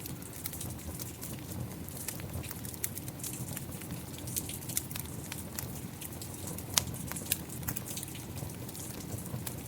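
Rain and a crackling fire together: frequent sharp pops and snaps from the fire over a steady rushing hiss of rain, with one louder pop about two-thirds of the way through.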